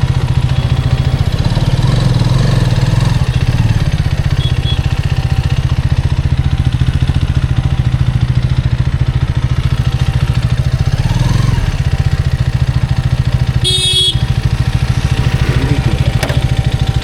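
Hero Karizma XMR's single-cylinder engine running steadily under way, with a brief high beep about three-quarters of the way through.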